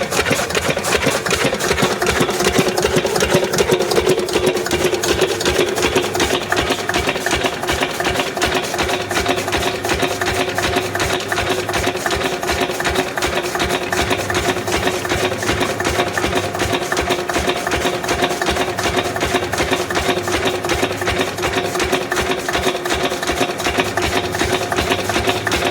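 Lister 8 HP single-cylinder diesel engine running steadily under load, belt-driving a chaff cutter. The cutter's blades chop fodder with a fast, even clatter.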